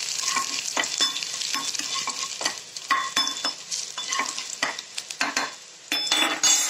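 Chopped garlic and ginger sizzling in hot oil in a kadai, stirred with a slotted spoon that scrapes and taps against the pan again and again.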